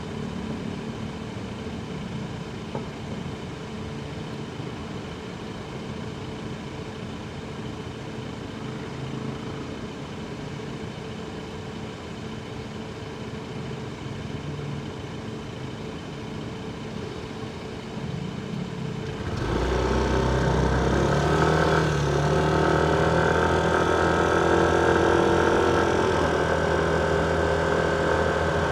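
Motor vehicle engines in city traffic, heard from a motorcycle: a steady idling engine sound, then about two-thirds of the way through a much louder engine comes in suddenly and runs on, its pitch rising a little.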